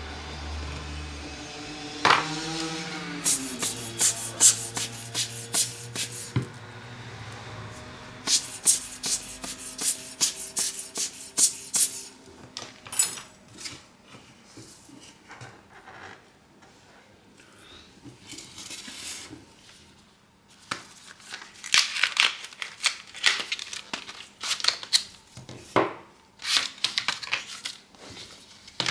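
Clusters of sharp clicks and taps from small hand tools and phone parts being handled on a work surface during a smartphone repair, with a quieter stretch in the middle.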